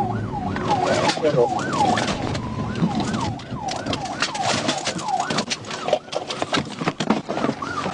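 Police car siren in a fast yelp, rising and falling about three times a second. Many sharp crackles and knocks are heard over it.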